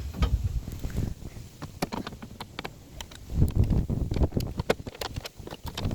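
Scattered clicks and light knocks of small bolts and a panel plate being handled and fitted by hand, with uneven low rumble that swells about three and a half seconds in.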